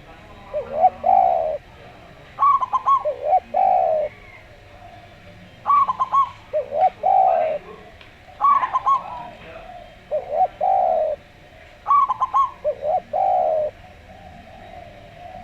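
Zebra dove (perkutut) and Javan derkuku cooing. The phrase repeats about every three seconds: a quick stutter of higher notes followed by two longer, lower coos.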